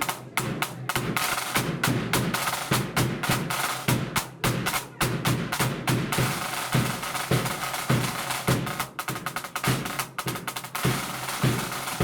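A marching band's drum section playing: rapid snare drum rolls over regular bass drum beats.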